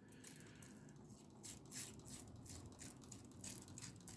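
Faint, irregular light ticks and rustles, about two or three a second, from small hand work on a model railway layout while watered-down PVA glue is applied to ballast.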